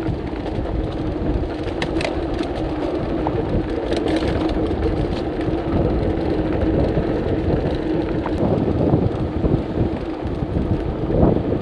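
Strong wind rumbling on the microphone, with a steady low hum underneath.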